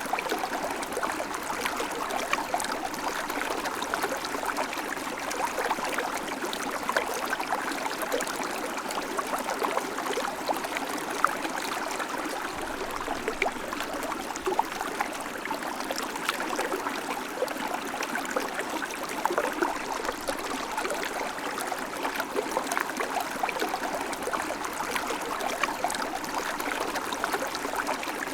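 River water flowing steadily over rocks: a constant rushing babble full of small splashes and trickles.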